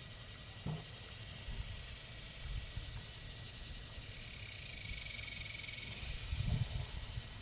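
Pigs grunting: a short low grunt about a second in and a louder one near the end, over a steady low rumble.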